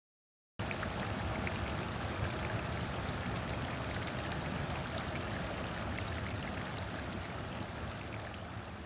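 A stream of flowing water, a steady, even rush that starts abruptly about half a second in and slowly fades near the end.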